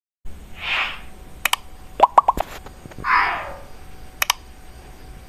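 Short edited-in sound effects: two swishes a little over two seconds apart, with sharp clicks between them and a quick run of three or four rising pops about two seconds in.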